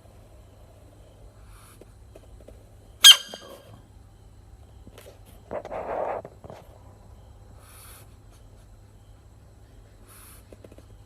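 A frog's short, sharp squeak about three seconds in, followed a few seconds later by a breathy hiss lasting about a second.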